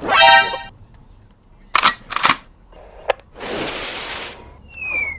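A string of edited-in sound effects: a short pitched blare, then two sharp gunshot-like cracks about half a second apart, a click, about a second of hiss, and a falling whistle near the end.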